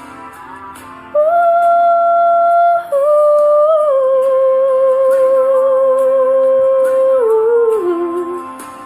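A high voice singing long wordless held notes over guitar accompaniment; the second note wavers with vibrato, then steps down and fades near the end, closing the song.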